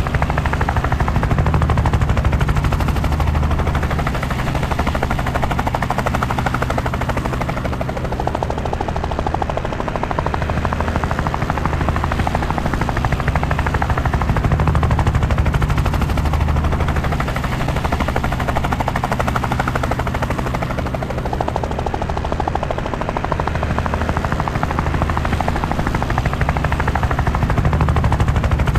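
Helicopter in flight: a steady, rapid chop of the rotor blades over engine noise, slowly swelling and easing in loudness every several seconds.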